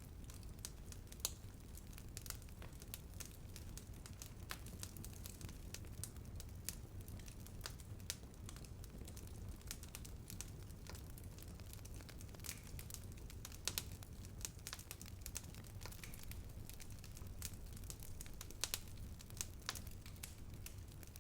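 Bonfire burning: a low steady rumble of the flames with dense, irregular crackling and occasional louder pops of burning wood.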